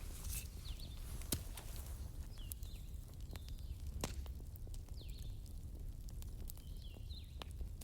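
Wood fire crackling, with sharp pops now and then over a low steady rumble, the strongest about a second in. Faint short high chirping whistles recur through it.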